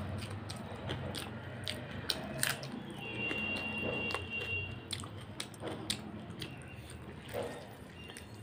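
Close-up chewing and wet mouth smacks of someone eating rice and chicken curry by hand, with many short clicks.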